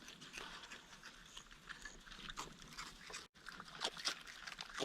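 Raccoons crunching and chewing dry Fruit Loops cereal: a string of quick, sharp crunches and smacking. The sound cuts out completely for a moment a little after three seconds in.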